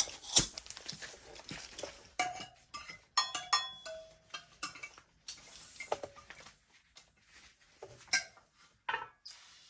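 Metal hand tools clinking, tapping and rattling as they are handled, with a few short ringing clinks. About nine seconds in, a steady hiss of compressed air starts as the dirt-bike tire is inflated to seat the bead.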